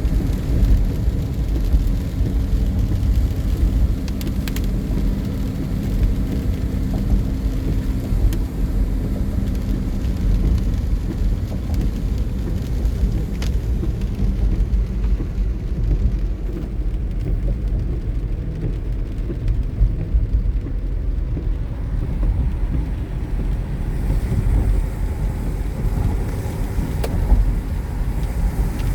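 A car driving: a steady low rumble of road and engine noise. A faint steady hum sits under it for the first ten seconds or so.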